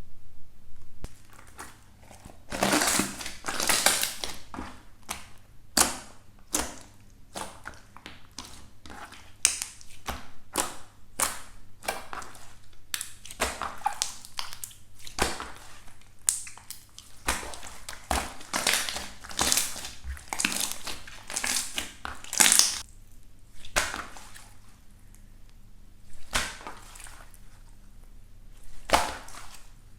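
Slime being squeezed, pressed and pulled by hand close to the microphone, making irregular crackles and crunches with longer crinkly stretches.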